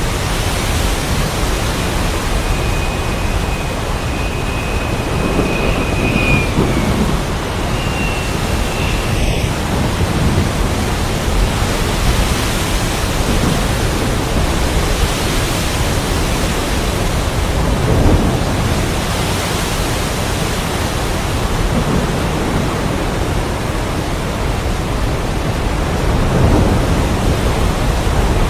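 Heavy rain making a steady hiss while thunder rolls in low, swelling rumbles several times. A thin high whistle-like tone sounds twice in the first third.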